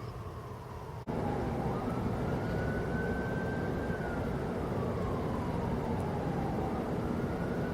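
Emergency vehicle siren with a slow wail that rises and falls, over steady vehicle noise. The sound jumps louder about a second in.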